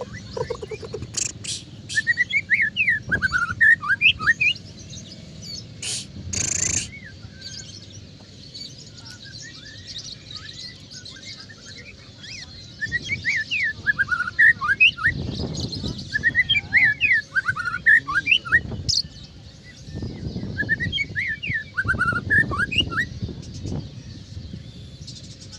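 White-rumped shama (murai batu) singing in three bouts of rapid, varied whistled phrases, with pauses between them, over a low steady background hum.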